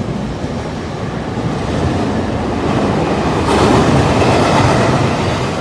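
E231-0 series electric commuter train pulling out of the station, its wheels rumbling and clattering over the rail joints. The sound swells and brightens about three and a half seconds in as cars pass close.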